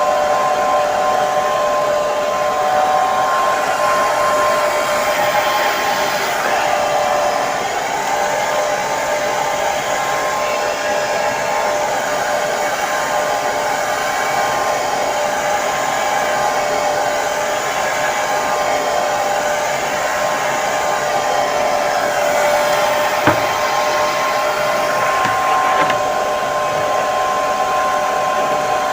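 Hair dryer running steadily: a constant rush of blowing air with a steady motor whine over it. A single short click about two-thirds of the way in.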